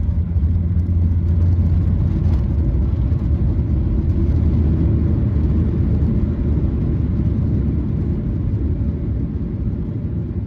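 Steady low rumble of a Boeing 737-800 on its landing run, easing off slowly toward the end.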